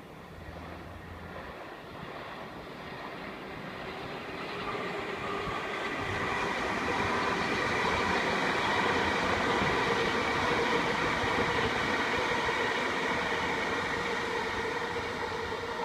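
Passenger multiple-unit train passing along the tracks. It grows steadily louder to a peak around the middle and then slowly fades, a rolling rumble with a steady whine of several tones over it.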